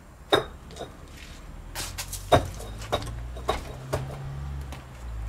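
A series of sharp knocks and clicks, about seven spread over a few seconds, over a low steady hum.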